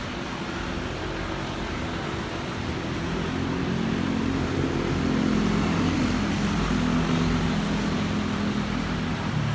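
Engines of an Airbus A330-941 (A330neo), its Rolls-Royce Trent 7000 turbofans, running as a steady rumble with a low drone that grows louder toward the middle and eases slightly near the end.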